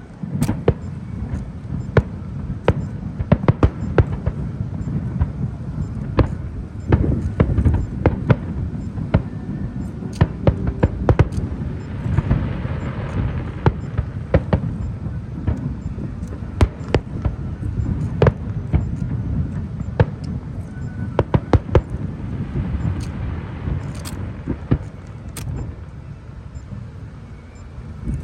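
Aerial fireworks going off in a steady barrage: many sharp bangs and cracks, some in quick clusters, over a continuous low rumble, with stretches of crackling hiss from crackle-type shells.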